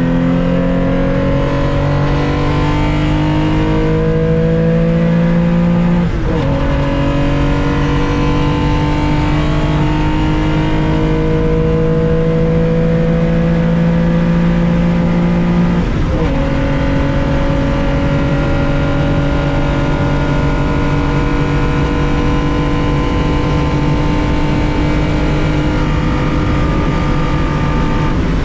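1965 Porsche 911 2.0's air-cooled flat-six engine heard from onboard under hard acceleration, its pitch climbing slowly through each gear. There are two upshifts, the first about six seconds in and the second a little past halfway, each a brief dip followed by a lower pitch that climbs again.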